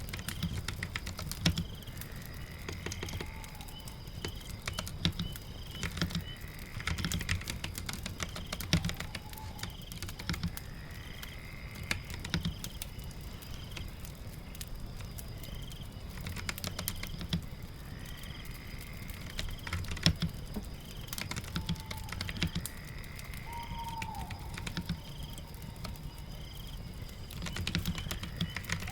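Typing on a keyboard in irregular bursts of keystrokes. Under it runs a soft ambience of rain and fire, with short chirps that repeat about once or twice a second.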